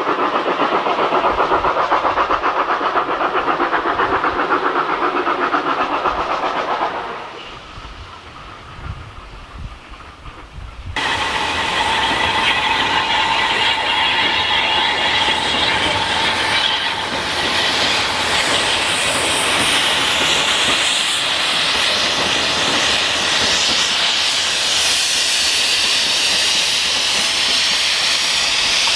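Steam locomotive working, then a short lull, then a loud, steady hiss of escaping steam that starts suddenly about eleven seconds in and carries on.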